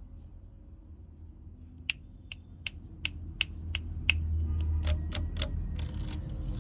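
Pied bushchat giving a series of sharp clicking "chek" calls, about three a second, starting about two seconds in, over a steady low rumble.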